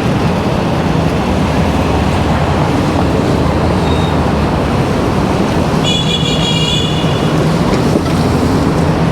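Steady rush of wind and city traffic noise heard while riding an electric bike in traffic, with a low steady hum underneath. About six seconds in, a brief high-pitched horn-like toot sounds for under a second.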